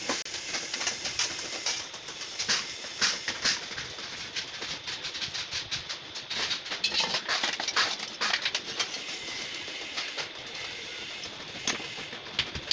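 Sheet metal being worked with hand tools: a run of irregular light metallic taps and clatter.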